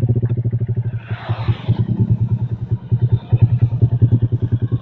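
Motorcycle engine running with a rapid, even exhaust beat, and a brief hiss about a second in.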